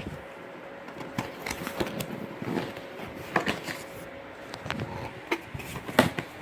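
Cardboard shipping box and its packing being handled: rustling, scraping and scattered sharp clicks as the opened box is pulled apart by hand.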